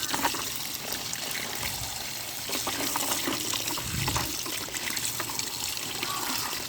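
Water running and splashing as a muddy toy truck is washed, with scattered small knocks and clicks throughout.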